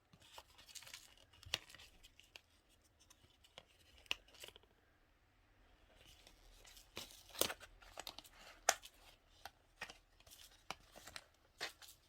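Small handling noises: scattered sharp clicks and taps with short rustling scrapes, the loudest clicks about seven and nine seconds in.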